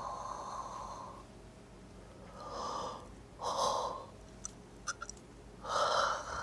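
A person breathing heavily through nose and mouth: one long exhale fading out about a second in, then three shorter breaths, with a few faint clicks between them.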